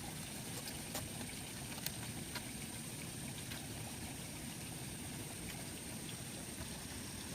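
Steady flowing water, a stream or runoff trickling, with a few faint ticks over it.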